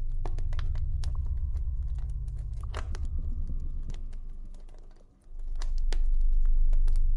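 Campfire crackling, with scattered sharp pops and snaps, over a low steady ambient drone. The drone fades out almost completely around five seconds in and then swells back louder.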